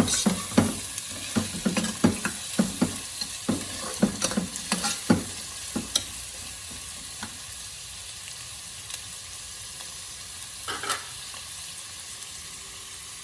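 Sliced onions sizzling as they fry in hot oil, with frequent knocks from stirring against the pan for about the first six seconds. After that the sizzle runs on steadily, with one more knock near the end.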